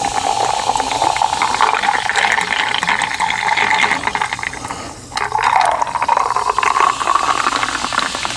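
Icy sparkling water being poured into a glass: a fizzing splash whose pitch rises steadily as the glass fills. The pour stops briefly about five seconds in, then resumes and keeps rising.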